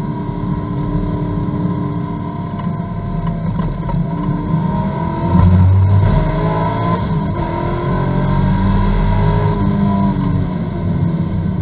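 Corvette GT2 race car's V8 engine heard from inside the cockpit, running at low speed through a corner, then getting louder about halfway through as the car accelerates hard, the engine note climbing in pitch.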